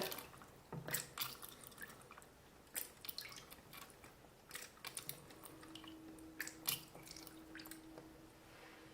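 Faint water dripping and splashing as a squeeze-pump toy fountain sprays into the water it floats on, with scattered small clicks. A faint steady hum comes in about halfway through.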